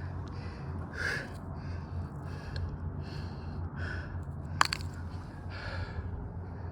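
A man breathing hard, panting after a steep climb, with short breaths coming about once or twice a second over a low steady rumble. A single sharp click about two-thirds of the way through is the loudest sound.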